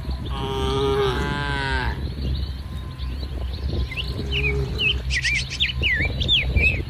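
Cows mooing: one long moo about half a second in, lasting over a second, then a shorter, fainter moo around four seconds in.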